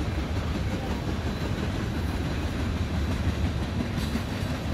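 Freight train of oil tank cars rolling past, its wheels on the rails making a steady low rumble.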